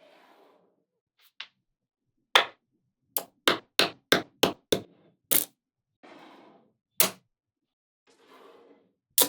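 Small magnetic balls clicking sharply as they snap together, about a dozen clicks in all, with a quick run of them through the middle. Softer brief shuffling sounds of balls being handled come between the clicks.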